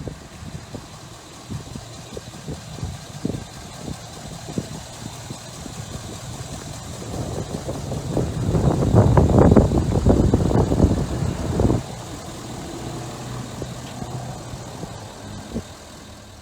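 Ford Power Stroke 6.7-litre V8 turbo diesel idling with a clatter, revved up about halfway through, then dropping suddenly back to idle.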